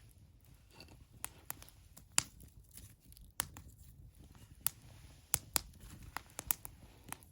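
Wood fire crackling: irregular sharp pops and snaps from burning firewood, about a dozen of them, over a low, steady rush of flame.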